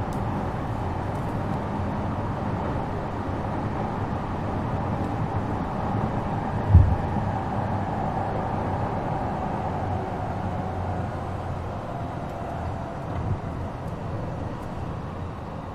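E233-7000 series electric train running between stations, heard from inside the car as a steady rumble of wheels and motors. There is a sharp low thud about seven seconds in and a smaller one later.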